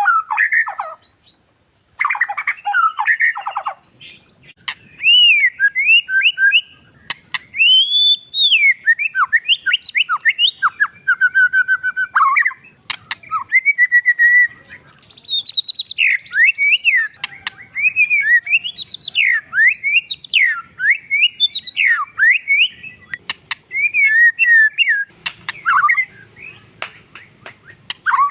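Oriental magpie-robin (kacer) in full territorial song: a long, varied run of loud whistled phrases, rising and falling slurs and rapid trills, broken by short pauses.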